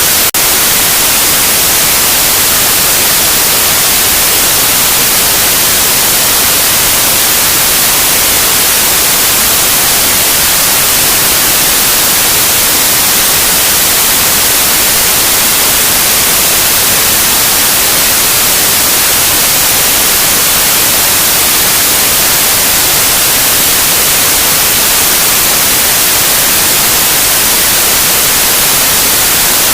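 Loud, steady electronically generated white noise: an even, unchanging hiss across all pitches, brightest at the top.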